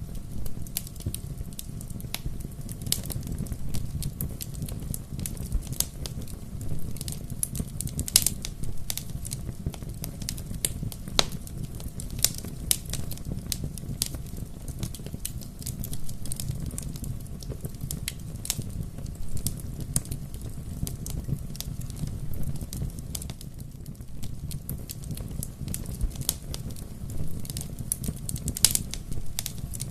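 Bonfire crackling and popping: frequent sharp snaps over a steady low rumble of burning, a few louder pops standing out, one about eight seconds in and one near the end.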